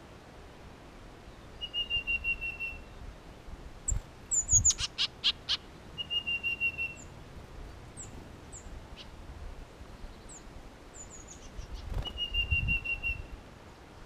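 Backyard birds at a seed feeder: a songbird sings a quick, even run of about ten notes on one pitch, three times, with thin, high, down-slurred chips between. About four to five seconds in comes a brief flutter of wingbeats, the loudest sound.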